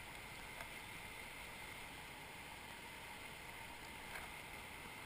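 Steady, faint rush of river water. Two small clicks come about half a second and four seconds in.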